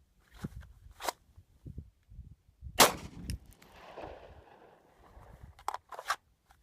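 A single 9mm pistol shot from a Glock 19 Gen4 about three seconds in, fired from the draw, with an echoing tail. Lighter clicks and knocks come before and after it.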